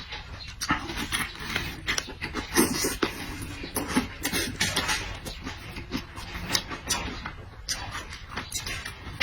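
Close-miked eating: a person chewing and smacking food, with a quick irregular run of wet mouth clicks.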